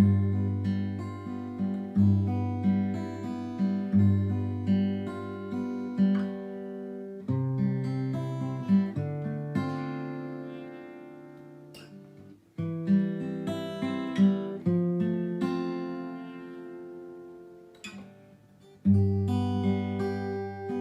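Background music on acoustic guitar, plucked notes with a steady bass pattern that thins out and softens around the middle.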